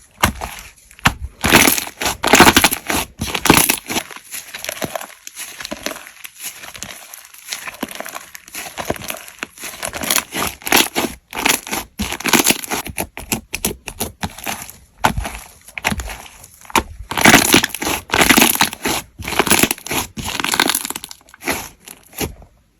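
Slime being squeezed, pressed and stretched by hand, making dense irregular crackling and crunching noises with louder bursts, for example around 2 s, 12 s and 17 to 20 s.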